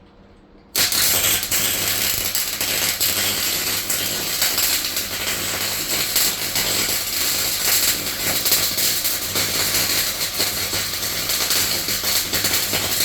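Welding arc crackling steadily as a patch is welded over a hole in a van's steel floor, with a low hum under it. It starts about a second in and stops sharply near the end.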